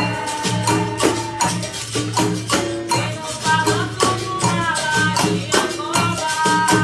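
Capoeira Angola roda music: the bateria of berimbaus, pandeiro and rattles playing a steady percussive rhythm.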